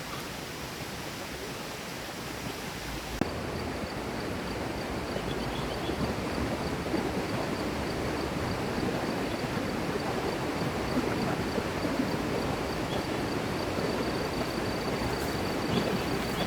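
Steady rushing of a flowing river. It changes and fills out about three seconds in, and from then on a thin, high, steady tone runs through it.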